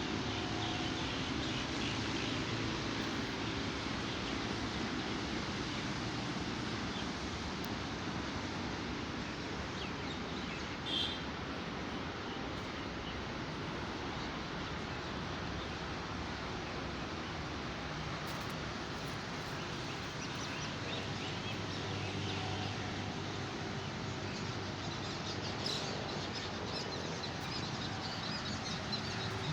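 Steady outdoor background noise with birds chirping now and then, a short chirp about a third of the way in and more scattered chirps near the end.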